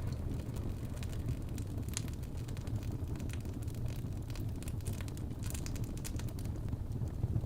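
Wood fire burning in a fireplace: a steady low rumble with scattered crackles, and a louder pop about two seconds in.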